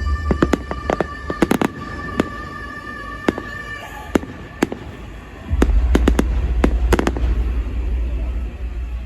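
Fireworks display going off: a rapid series of sharp bangs and crackles, with a deep low rumble coming in about halfway through.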